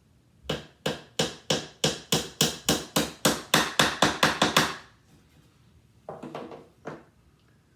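A hammer tapping a small nail into a wooden beehive frame, a quick run of about sixteen blows at roughly four a second, followed a second later by a couple of fainter knocks.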